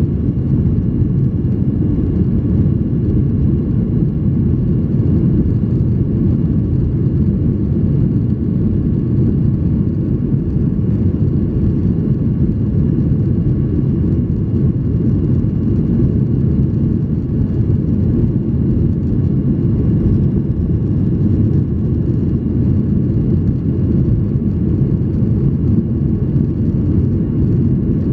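Steady cabin noise inside a Boeing 737-800 in flight: a constant deep rush of its CFM56-7B turbofans and airflow over the fuselage, with faint steady whining tones above it.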